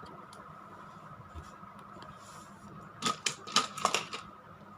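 Hard plastic toy trains being handled and set down: a few sharp clicks and knocks about three to four seconds in, over a faint steady hum.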